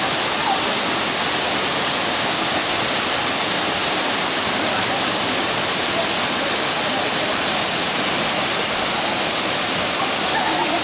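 Steady, loud rushing noise that stays even throughout.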